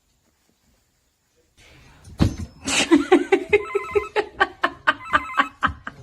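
Silence for about a second and a half, then a thump and a fast run of ringing, bell-like strikes, about four or five a second.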